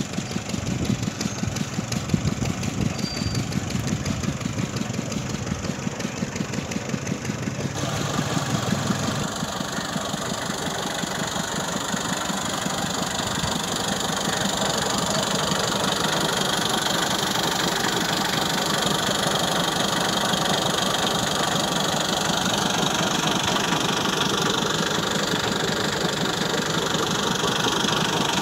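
Massey Ferguson 260 tractor's three-cylinder diesel engine running with a rhythmic knock; about eight seconds in the sound turns louder and steadier, with a hiss above the engine.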